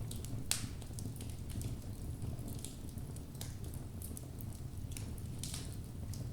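Wood fire in a fireplace: logs burning with a steady low rumble and irregular sharp crackles and pops, the loudest pop about half a second in.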